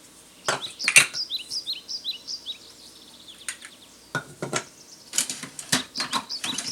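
Dishes and cutlery clinking and knocking, a string of sharp clatters. Early on a bird chirps in a quick run of short falling notes.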